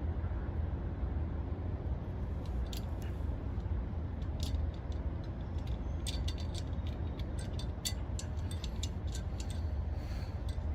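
Scattered small metallic clicks and ticks from hands handling wires, connectors and tools, coming thickly from a couple of seconds in until near the end. A steady low rumble runs underneath.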